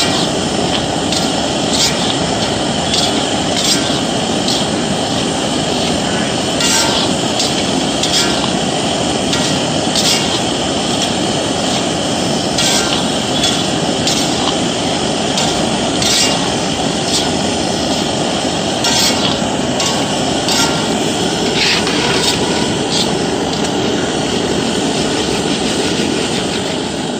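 Snacks being roasted in hot salt: a steady rush of salt and grains being stirred and scraped in a pan, with repeated sharp metal clinks.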